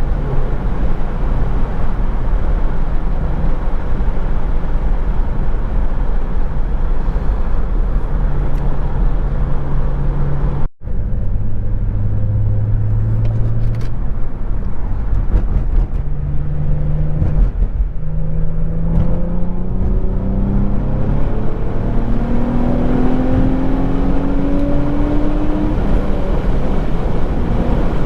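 Infiniti G35's VQ35DE 3.5-litre V6 running through a Z1 touring exhaust while driving, its note steady at first, then rising in pitch as the car accelerates near the end. The sound cuts out sharply for an instant about eleven seconds in.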